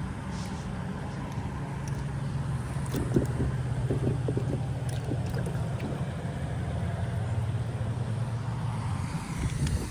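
A steady low engine hum, with a short run of light clicks and crackles in the middle.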